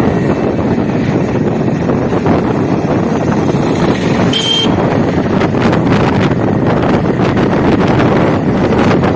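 Wind buffeting the helmet-mounted microphone of a moving Hero Honda Splendor motorcycle, a loud steady rush that covers the engine. A brief high beep sounds about four and a half seconds in.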